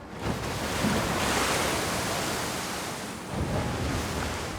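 Geyser erupting: steam and scalding water forced out of the ground under pressure in a sudden rush that begins at once and carries on as a steady, noisy rushing, with low gushes about three seconds in.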